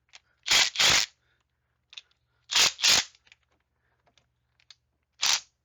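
Aerosol brake parts cleaner sprayed in short hissing bursts, mostly in quick pairs about two seconds apart, onto an ATV engine case.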